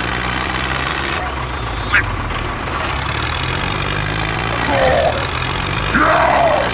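Tractor engine idling steadily with a low hum. Brief squeaky voice-like sounds come over it near the end.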